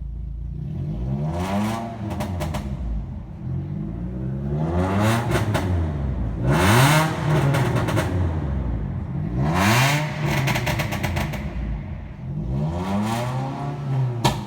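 Proton Saga FLX's 1.3 Campro four-cylinder engine revved about five times, each rev rising and falling in pitch, with exhaust pops and crackles as the revs drop. One sharp bang comes near the end. The engine and ECU are stock and only the exhaust is lightly modified.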